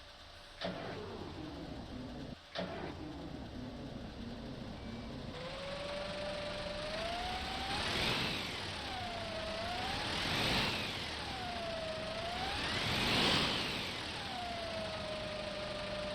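Bus engine on a cold start. Two sharp clicks come in the first few seconds, then the engine runs. It swells three times as the throttle is pumped and settles to a steady run near the end.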